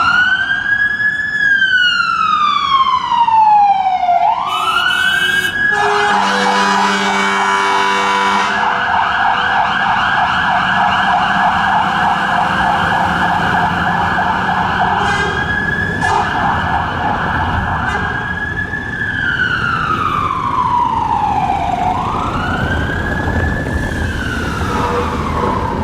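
Fire engine's electronic siren sounding a slow rising-and-falling wail, then switching to a fast warble for about ten seconds before going back to the slow wail. A heavy air horn blasts for a couple of seconds early in the fast warble.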